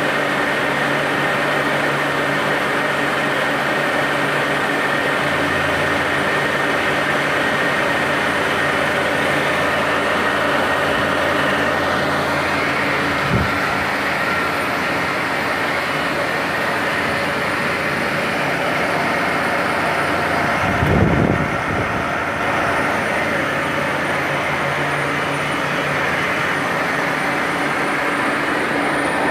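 Deckel CNC milling machine running steadily while machining a cam: the drive hum of spindle and motors carries several steady tones. A brief knock comes about 13 seconds in, and a short low rumble about 21 seconds in.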